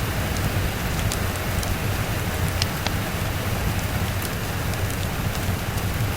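Steady rain falling, a constant hiss with a low rumble under it. Scattered sharp crackles from a fireplace sound through it.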